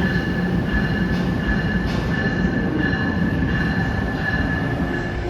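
A train running on the station tracks: a low rumble under a continuous high-pitched wheel squeal that wavers slightly.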